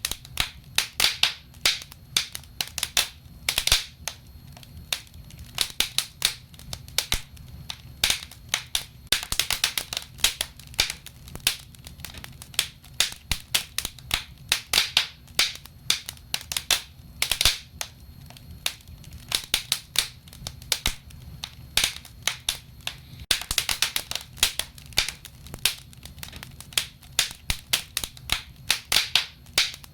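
Wood fire burning in a fireplace, crackling and popping irregularly, sometimes in quick clusters, over a low steady rumble.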